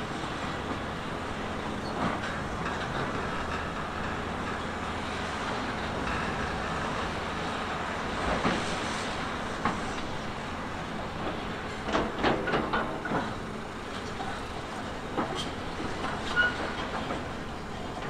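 Heavy diesel earthmoving machinery running steadily, with scattered metallic clanks and knocks, heaviest in a cluster past the middle.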